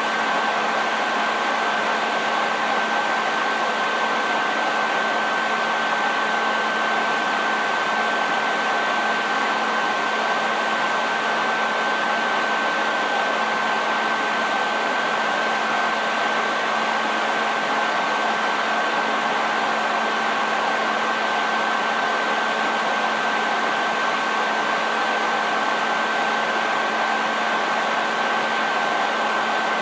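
Hair dryer running steadily: a constant rush of air with a steady high whine from the motor and a low hum beneath.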